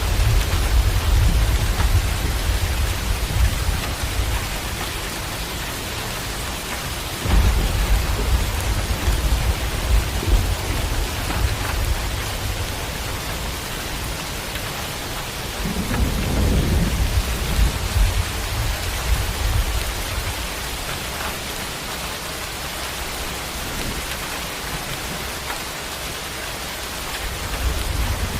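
Steady heavy rain hissing, with rolls of thunder rumbling underneath: one rumble starts suddenly about seven seconds in, another swells up around sixteen seconds, and the thunder dies away in the later part while the rain goes on.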